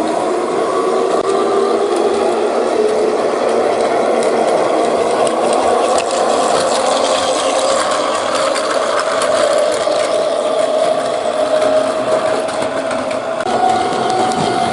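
Battery-powered Plarail toy trains running on plastic track: a small electric motor whining under a steady rattle of wheels and gears, its pitch drifting and stepping up near the end.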